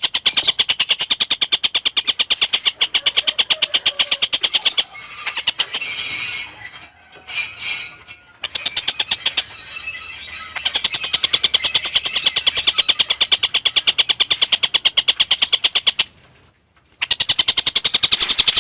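A tengkek buto kingfisher calling in long, rapid runs of sharp, evenly spaced notes. A softer, uneven stretch breaks the runs midway, and there is a pause of about a second near the end.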